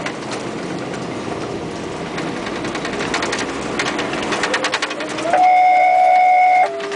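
Fire truck on the move, heard from inside the cab: steady engine and road noise with a rhythmic rattle. About five seconds in comes a loud, steady horn blast lasting just over a second, and after it a lower siren tone that slowly slides down.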